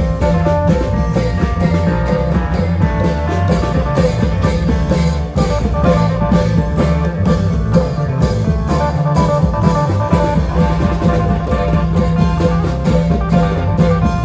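Isan klong yao ensemble playing: long drums keep a steady beat under a plucked string melody.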